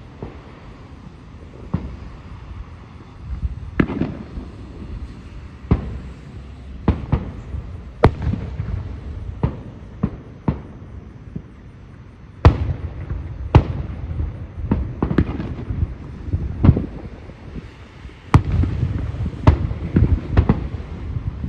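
Aerial fireworks bursting one after another: sharp bangs over a continuous low rumble. They come thicker about twelve seconds in, and again in a rapid barrage near the end.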